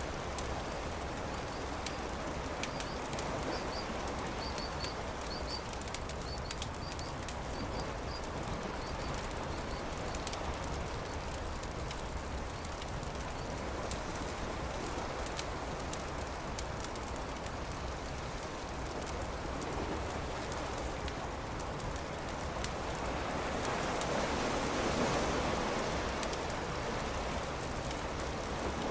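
Campfire crackling over a steady rush of surf, the surf swelling louder near the end. A bird chirps a quick run of short high notes in the first few seconds.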